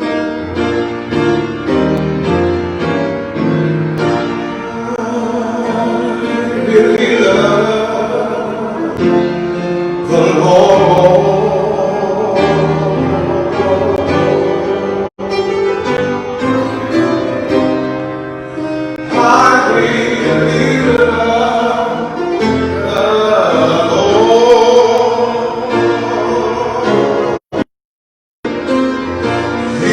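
Gospel music from a church service: singing over instrumental accompaniment. The sound drops out briefly about halfway and again for under a second near the end.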